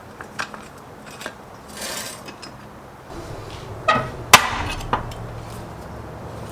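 Metal parts and tools clinking and knocking in a few separate strikes, with a short scrape. A low steady hum comes in about halfway through, and the loudest knock follows about a second later.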